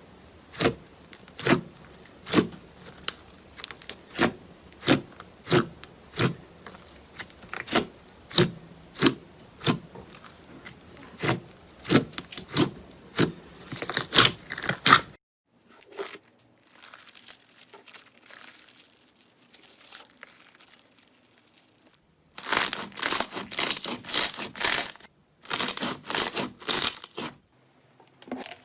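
Slime being pressed and squeezed by hand, giving sharp popping clicks about one and a half times a second. About halfway through it cuts to a quieter stretch, then to a run of dense crackling.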